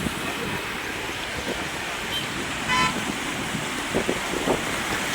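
A vehicle horn toots once briefly, about halfway through, over a steady background of noise.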